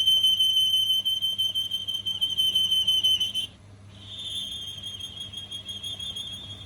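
A steady high-pitched whine over a low hum, which breaks off about three and a half seconds in and resumes more faintly half a second later.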